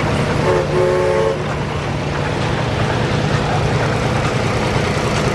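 Antique engine running steadily, with a short whistle about half a second in that lasts about a second.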